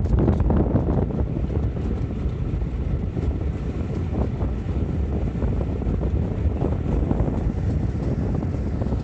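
Hunslet Austerity 0-6-0ST saddle tank steam locomotive working along the line, a low rumble with faint scattered beats, under heavy wind buffeting on the microphone.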